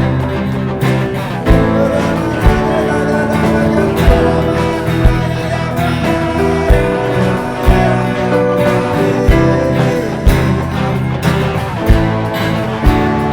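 Live band music led by acoustic guitar, over a steady beat.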